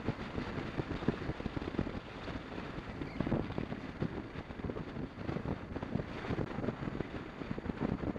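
Wind buffeting the microphone of a motorcycle camera while riding, in irregular low gusts over steady road and engine noise.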